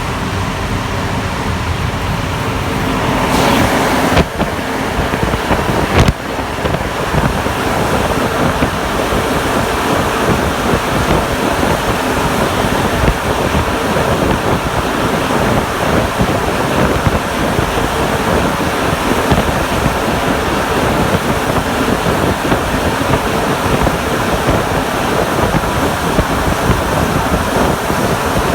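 NS-93 metro train running at speed, heard from on board: a steady rush of running and tunnel noise, with motor tones audible in the first few seconds and two sharp knocks about four and six seconds in.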